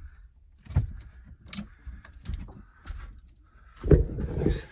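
Knocks and clatter from handling and fitting vent pipe elbows, several separate short knocks, then a louder rough scraping noise about four seconds in.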